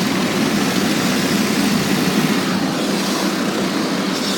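Tunnel car wash machinery working over the car, heard from inside the closed cabin as a steady, loud rushing noise.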